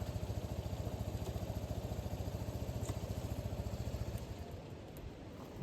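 Kawasaki 250TR's single-cylinder four-stroke engine idling with an even low thumping beat, then switched off about four seconds in, leaving a quiet background and a short knock at the very end.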